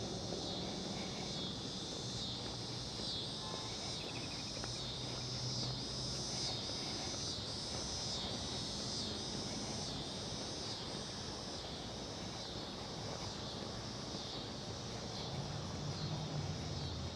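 Chorus of summer insects, a high shrill buzz that swells and fades about twice a second in a steady rhythm, over a low steady hum.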